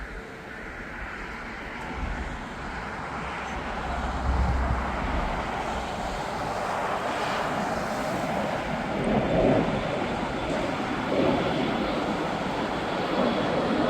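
Jet airliner's engines, a broad rushing noise that grows steadily louder as the aircraft approaches, with a faint high whine joining in the second half.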